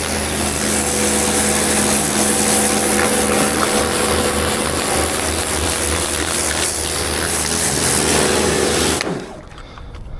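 A power tool running steadily at full speed, then cutting off abruptly about nine seconds in.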